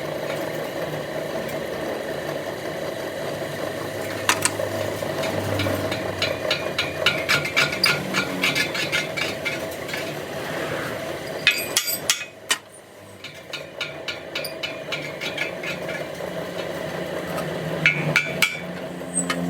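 Irregular hammer strikes and clanks on metal over a steady low hum, with the blows coming thickest in the middle.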